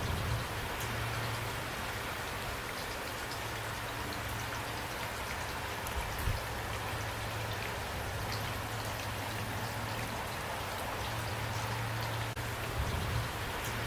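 Steady rain falling, with individual drops pattering on a surface, over a low hum that fades in and out. A couple of slightly louder drop hits come about six seconds in and near the end.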